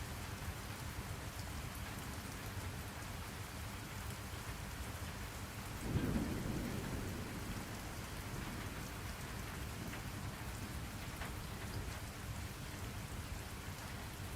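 Steady rainfall, with a low roll of thunder that starts abruptly about six seconds in and fades away over a couple of seconds.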